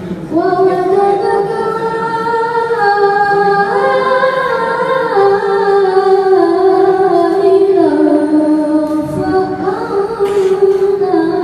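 A young girl reciting the Quran in ornamented tilawah style, holding one long unbroken melodic phrase whose pitch steps up and down through melismatic turns.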